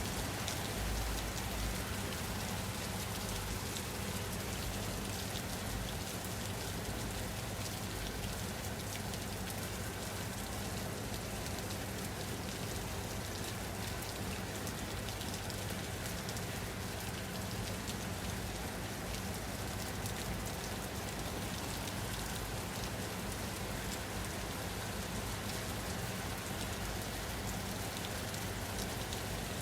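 Steady rain falling on a surface, an even hiss of many small drop impacts with a low rumble underneath, unchanging throughout.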